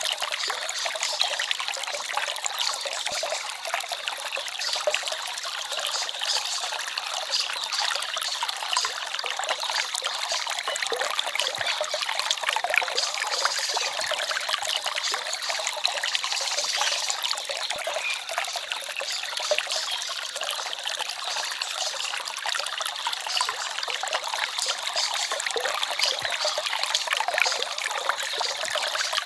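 Shallow forest stream babbling and trickling over stones: a steady, busy splashing of water with little depth to it.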